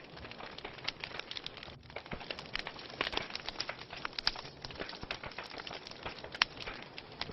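Wood fire burning in a fireplace, crackling with irregular sharp pops over a steady hiss, one pop louder than the rest near the end.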